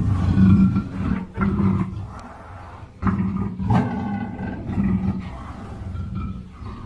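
Black leopard (black panther) growling and roaring in rough, repeated bouts, with a quieter pause about two seconds in before it starts again.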